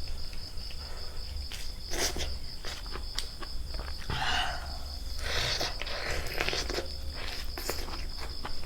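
Insects chirring in one steady high-pitched note, with scattered sharp clicks and two short rustling noises near the middle.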